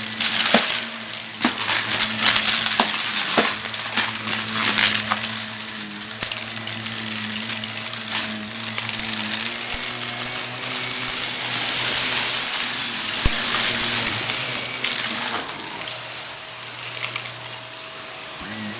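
Vacuum cleaner running and sucking up crunchy debris: a steady motor hum and rush of air, with sharp crackles and rattles of grit going up the nozzle, thickest in the first few seconds. The airflow grows louder about eleven seconds in and eases off near the end.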